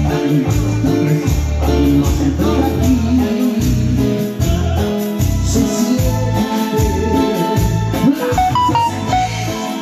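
A band playing a Latin song, with bass, guitar, tambourine and a singing voice.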